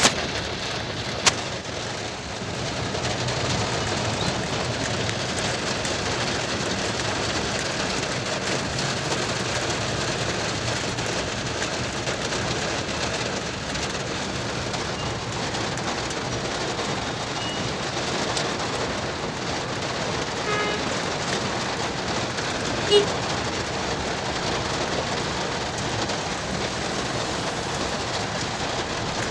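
Steady rain falling on a moving car. A sharp click comes right at the start and another about a second later, and a brief pitched blip comes about three-quarters of the way through.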